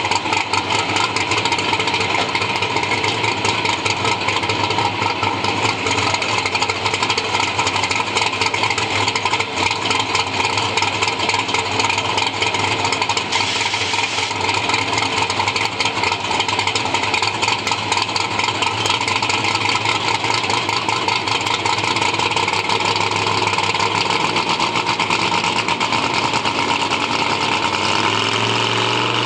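Chevy II drag car's engine idling steadily with a rough, rapidly pulsing beat.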